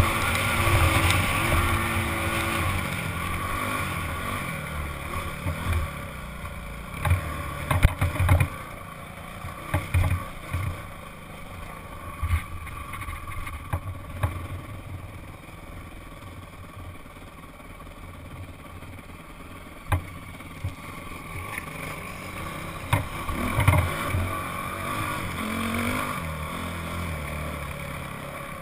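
Honda CRF dirt bike's single-cylinder four-stroke engine running under the rider, picked up by a helmet-mounted camera, with the revs rising and falling. The engine is loudest in the first few seconds and eases off through the middle, with sharp knocks scattered throughout.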